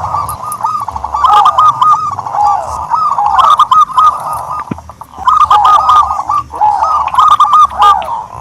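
Dove calling: loud, rapid runs of short, arched cooing notes in repeated phrases, with short breaks about half a second in and again near five seconds.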